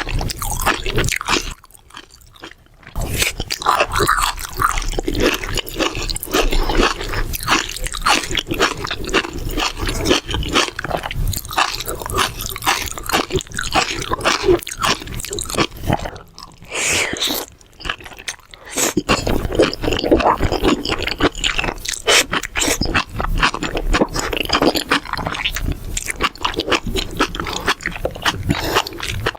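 Close-miked chewing and crunching of mala xiang guo, a dense run of crisp, wet bites and chews, with a short pause about two seconds in and another past the middle.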